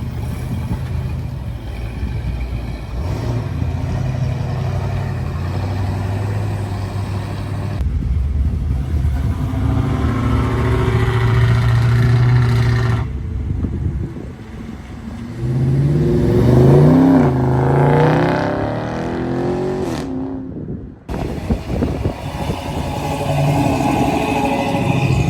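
Car engine running steadily, then revved up and down several times a little past the middle. The sound drops out for about a second near the end before the engine is heard again.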